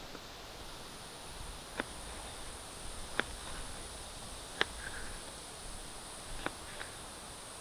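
A knife cutting food on a small cutting board: about five sharp taps of the blade against the board, a second or so apart. A steady high-pitched buzz sets in about half a second in and carries on underneath.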